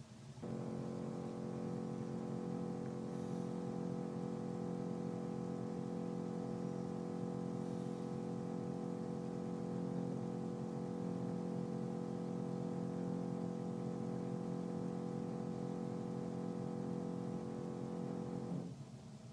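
Construction machinery running on the floor above, heard through the ceiling as a steady, even drone that starts about half a second in and cuts off sharply near the end.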